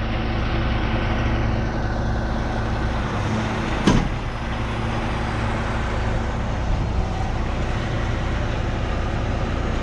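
Tow truck running: a steady drone of engine and road noise, with a single sharp knock about four seconds in.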